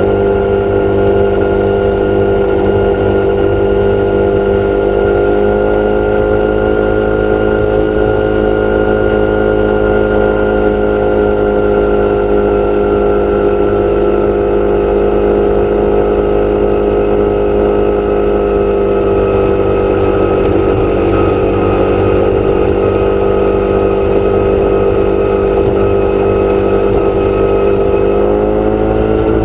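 A motor running steadily with a droning hum, its pitch drifting slowly up and down, rising a little about six seconds in and again near the end.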